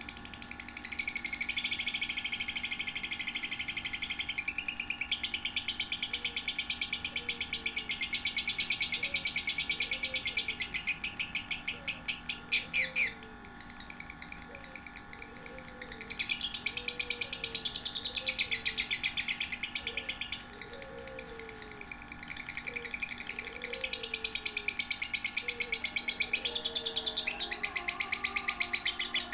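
Lovebird giving its long rapid chattering trill (ngekek), a training song for young lovebirds. It comes in three long runs: about twelve seconds, then about four, then about five, with short lulls between them.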